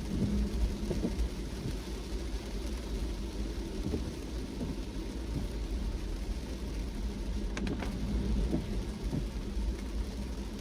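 Car driving in rain: a steady wash of rain and road noise over a deep rumble, with a brief cluster of clicks about three quarters of the way through.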